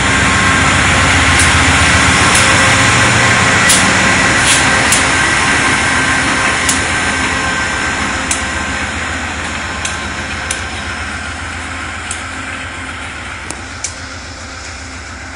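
GE P40DC diesel locomotive shoving a push-pull train away from the station: its diesel engine runs under a steady rumble, with scattered sharp clicks, and the sound slowly fades as the train leaves.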